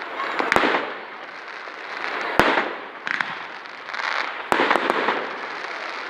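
Fireworks going off: sharp bangs about half a second in, a louder one near the middle, and three in quick succession near the end, with crackling hiss between them.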